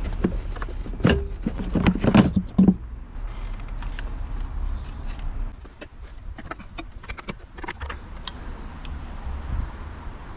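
Hand tools and metal car parts clanking and clicking, with a cluster of loud knocks over the first three seconds, then lighter scattered ticks.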